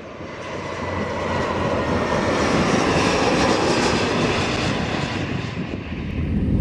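Jet airliner's engines passing close by: a steady rush of jet noise that builds over the first couple of seconds, with a faint whine that falls slightly in pitch, and a deep rumble swelling near the end.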